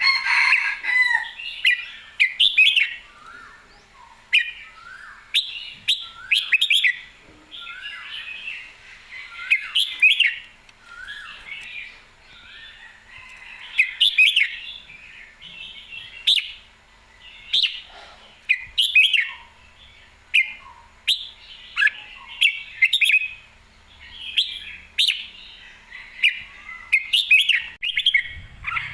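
Red-whiskered bulbul singing: short, bright, warbling phrases repeated every second or two, with a few sharp clicks between them.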